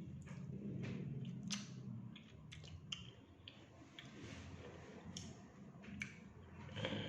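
Close-miked eating sounds: chewing with scattered small clicks and mouth smacks, over a steady low hum.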